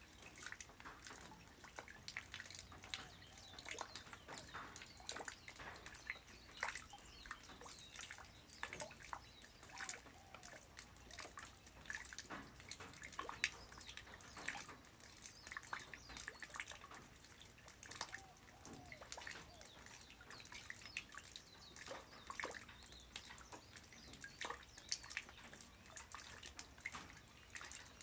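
Light rain falling on the ground: a faint, steady patter of irregular individual drops and drips.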